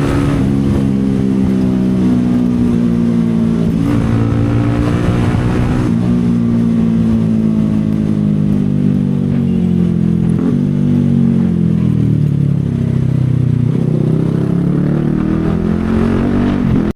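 CFMoto 250SR Lite's single-cylinder engine running under way, its pitch rising and falling with the throttle. There are short dips in pitch about six and ten seconds in, and a slow fall and climb again near the end.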